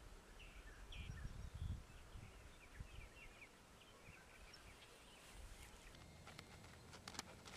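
Faint outdoor birdsong: scattered short chirps and whistled notes, with a low rumble about a second in and a few clicks near the end.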